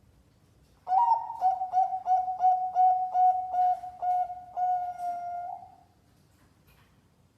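Zebra dove (perkutut) singing one phrase of its competition-grade cooing song, about a second in: a string of short, quick, clipped coos that ends in a longer drawn-out note.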